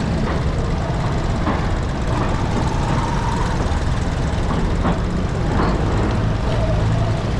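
Motorcycle in motion on a road, heard from the rider's seat: a steady rumble of engine and road noise.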